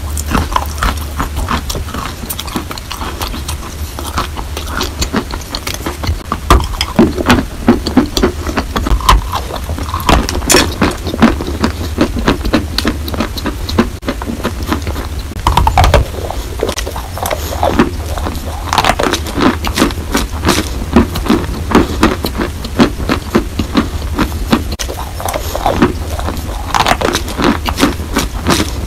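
Close-miked chewing and crunching of chalk: a dense run of small crunches and clicks from repeated bites, mixed with wet mouth sounds from the paste-soaked pieces.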